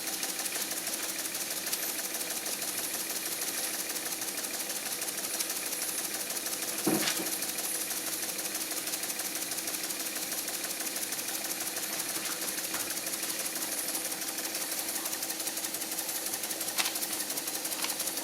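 Empire No. 90 toy steam engine's oscillating cylinder running steadily under steam, a fast, even mechanical rattle. A single sharp knock comes about seven seconds in.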